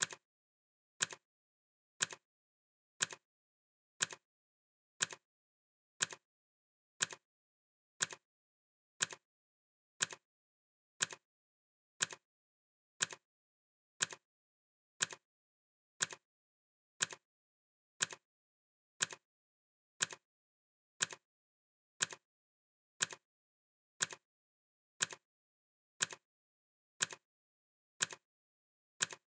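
Clock ticking sound effect: one sharp, crisp tick each second, steady and even throughout.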